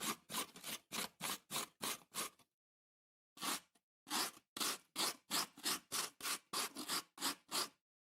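A metal grater scraped as a rhythm instrument in the Trinidad rhythm-section style: a steady rhythm of short scraping strokes, about three or four a second, with a brief break about two and a half seconds in.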